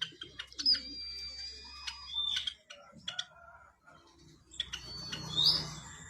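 White-headed munia singing: thin, high drawn-out whistles mixed with sharp clicking notes, with a louder whistle burst near the end.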